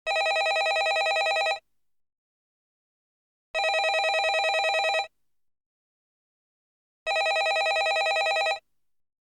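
Landline telephone ringing with a fast trill: three rings of about a second and a half each, repeating every three and a half seconds with silence between.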